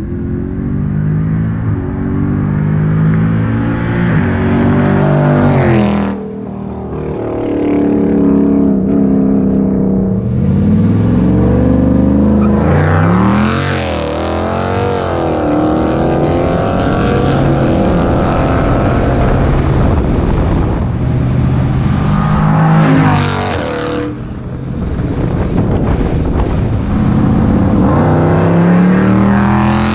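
2015 Jeep Grand Cherokee SRT's V8 through decatted long-tube headers and a Solo Performance exhaust, accelerating hard, its pitch climbing and stepping down at each gear change. It lifts off twice, about six seconds in and again near 24 seconds, then pulls again.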